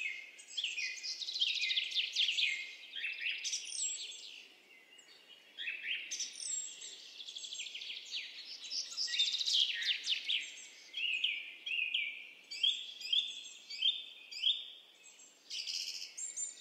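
Birds chirping and singing: a dense run of quick, high, downward-sliding notes, with a short lull about five seconds in.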